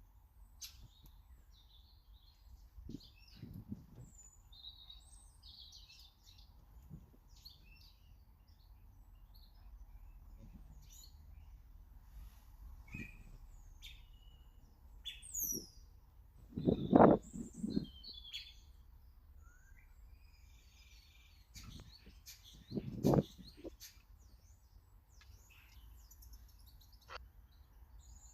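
Small garden birds chirping and calling in short, scattered notes. A few dull thumps break in, the loudest about two-thirds of the way through and another a little later.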